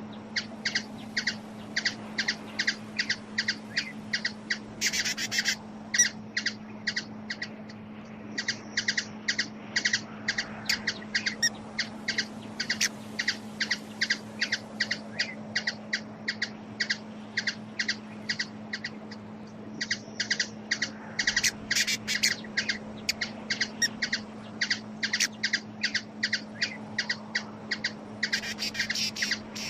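A small bird giving rapid, repeated high chip calls, about four or five a second, breaking into denser runs of chattering three times. A steady low hum runs underneath.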